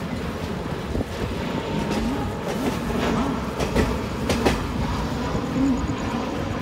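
Passenger train coach rolling along the rails, wheels clicking irregularly over rail joints and points as it runs into a station.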